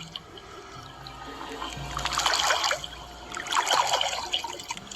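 Background music with two short bursts of running, trickling water, about two seconds in and again near three and a half seconds.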